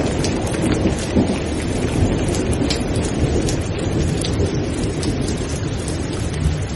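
Heavy rain falling steadily, with a low rumble of thunder underneath that eases slightly after the start.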